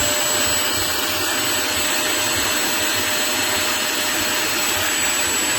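HAUSHOF StainZapper 400 W upholstery spot cleaner's suction motor running steadily: an even rush of air with a steady high whine.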